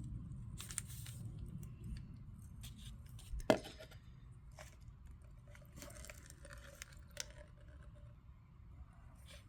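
Small clicks and clinks of tools and carburetor parts being handled, with one sharper knock about three and a half seconds in.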